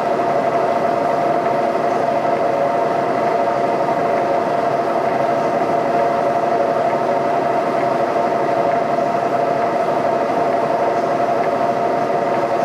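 Boring machine running with its boring bar cutting steel to true up worn holes in a suspension frame. It gives a loud, steady drone with a constant ringing tone riding over it.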